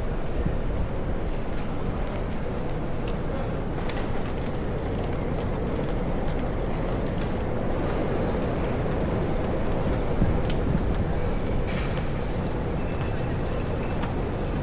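Strong wind on the microphone: a steady low rumbling noise, with a few faint clicks of street noise.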